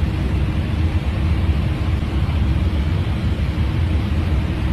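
Steady rumble and rush of an airliner in cruise flight heard from inside the flight deck: airflow and engine noise, even and unchanging.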